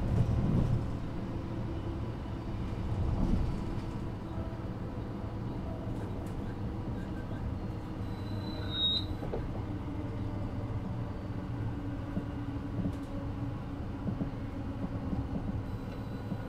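Class 333 electric multiple unit running between stations, heard from inside the passenger car above the motor bogie: a steady rumble of wheels and bogie with a faint traction-motor hum. Heavier knocks come just after the start and again about three seconds in.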